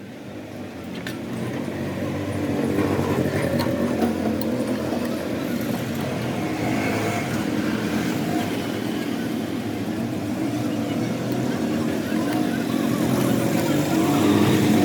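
A motor running steadily, building up over the first two seconds and then holding.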